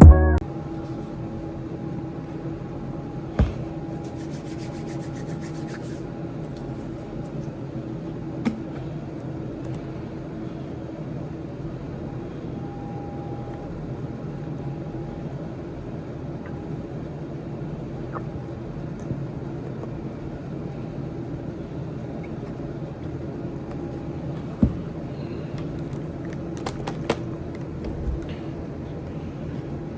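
Steady background hum with a few faint tones in it, broken by occasional sharp clicks and taps and a brief run of rapid ticking a few seconds in.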